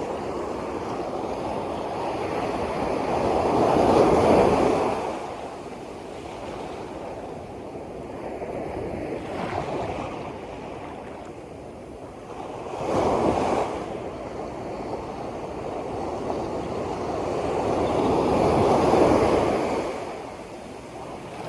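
Sea waves surging and washing in, with three louder swells about 4, 13 and 19 seconds in.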